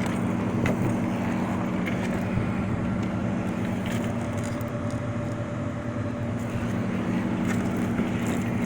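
Steady mechanical hum of nearby running rooftop HVAC machinery, a low droning tone with a few faint clicks.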